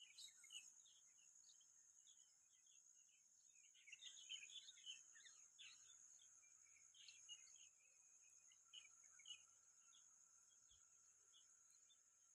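Faint small-bird chirping in scattered quick calls, busiest about four seconds in, over a steady high buzz.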